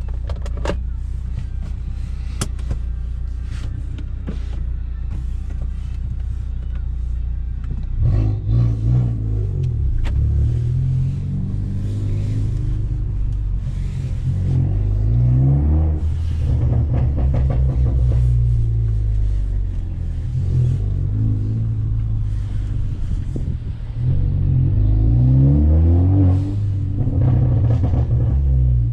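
Straight-piped, catless turbocharged Ford Focus ST engine and exhaust driving. A steady low drone for the first several seconds, then the car accelerates hard several times: the engine note climbs with the revs and drops back at each shift.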